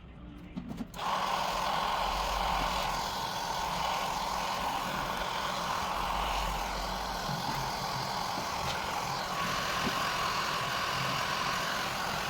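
Hair dryer switched on about a second in and running steadily with an even rush of air, heating the phone to soften the screen's adhesive.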